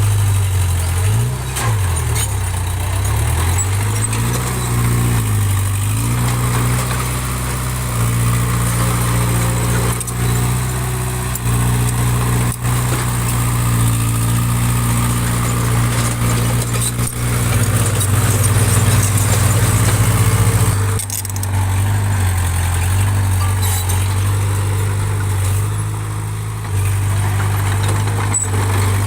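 Diesel engine of heavy earthmoving machinery running, its pitch rising and falling several times at first as it is revved under load, then holding steady, with a short change in its note about two-thirds of the way through.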